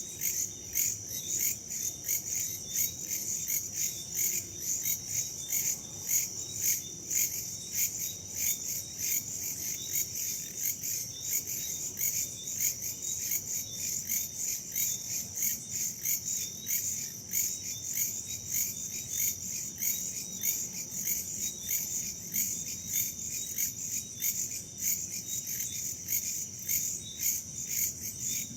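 A night chorus of crickets and other insects chirping in a steady, rhythmic pulsing trill, with a faint low rush of wind underneath.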